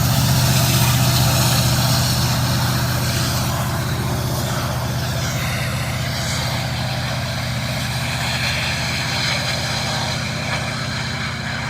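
Diesel locomotive engine of a freight train running with a steady drone over rolling noise, slowly fading.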